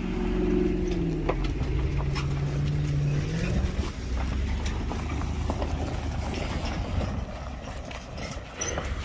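A vehicle engine running, its pitch stepping down over the first few seconds and then settling into a steady low hum, with a few light clicks and rattles.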